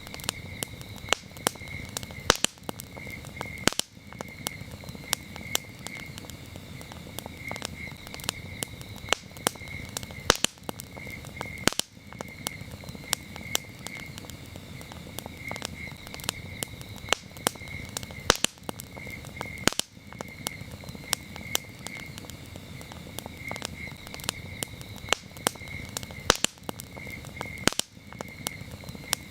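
Campfire burning, with frequent sharp crackles and pops over a low hiss of flame. Crickets chirp steadily in quick pulses behind it.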